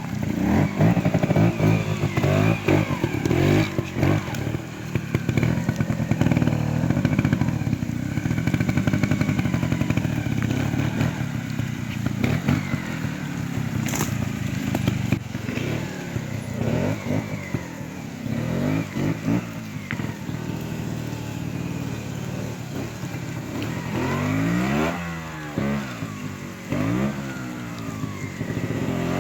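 Trials motorcycle engine running and blipping its throttle over and over, its pitch rising and falling in quick swoops that come thicker near the end. A single sharp click about halfway through.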